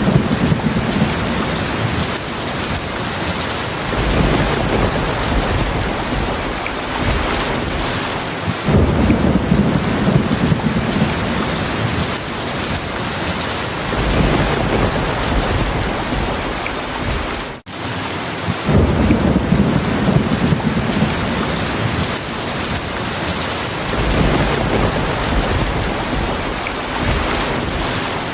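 Heavy rain falling with a steady hiss, under low rumbles of thunder that swell up every few seconds. The sound drops out very briefly about two-thirds of the way through.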